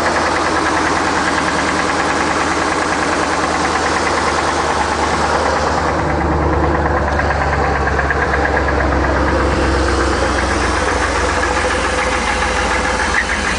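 Isuzu NPR's gas 5.7 liter V8 idling with a rapid, steady knock, the sign of an internal engine fault that needs repair. The note turns deeper and duller for a few seconds midway.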